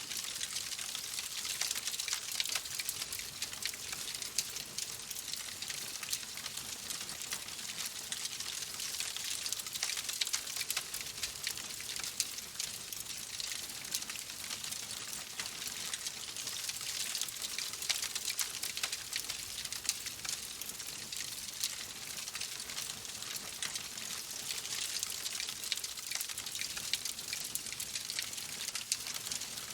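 Wood fire crackling in a fireplace: a steady hiss, with dense small pops and snaps throughout.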